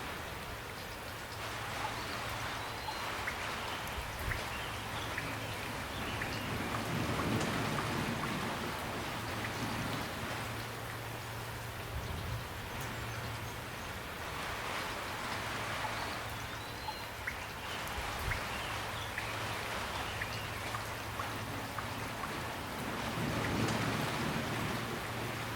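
Steady rain falling, with scattered individual drops tapping close by. The rain swells slightly twice, about a third of the way in and near the end.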